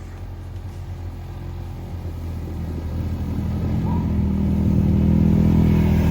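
Small off-road vehicle's engine running and drawing closer, growing steadily louder.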